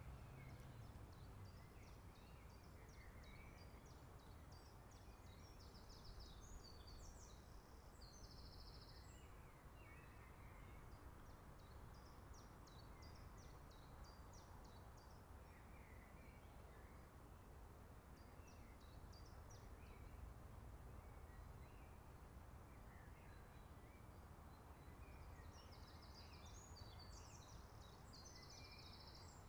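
Near silence with songbirds singing short phrases of chirps and trills, clearest about seven to nine seconds in and again near the end, over a faint low steady rumble.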